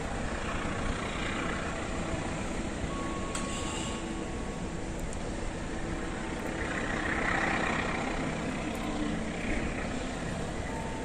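Diesel-hauled passenger train pulling away from the station into the distance: a steady, distant rumble that swells slightly about seven seconds in.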